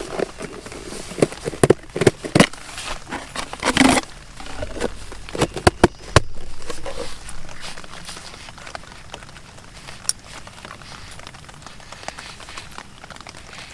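Rain pattering steadily, with a run of sharp irregular clicks, knocks and crinkling in the first half, as of things being handled close by; after that only the rain.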